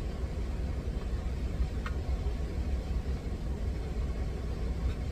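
Steady low rumble of the truck's idling engine, heard inside the cab, with a faint click about two seconds in.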